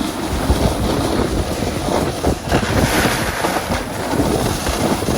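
Wind rushing over the microphone, with the rough scraping of a snowboard sliding over hard, icy snow.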